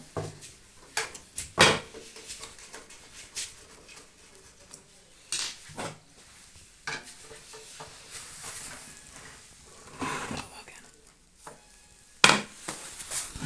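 Irregular metallic clinks, knocks and scrapes of tools and sheet-metal parts being handled as a microwave oven is taken apart, with the loudest knock near the end.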